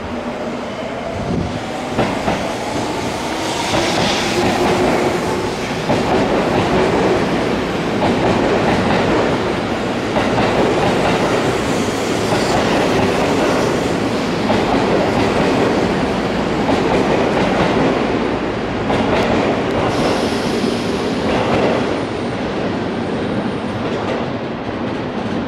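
Seibu Ikebukuro Line electric train moving along a platform at Seibu Ikebukuro station, a loud steady run of rail and wheel noise. A motor whine rises in pitch over the first few seconds. The noise grows louder from about six seconds in and eases near the end.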